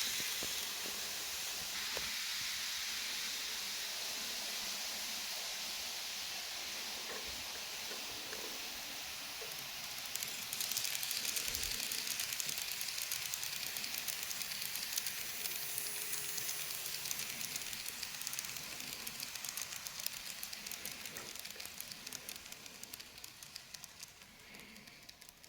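KATO E233 series model train running on its track: a steady high hiss from the wheels and motor, joined by rapid fine clicking from about ten seconds in, then fading away toward the end.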